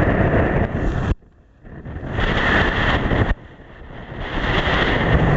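Strong wind buffeting the microphone in loud gusts while out on the water, cutting out suddenly about a second in and again past three seconds before building back up.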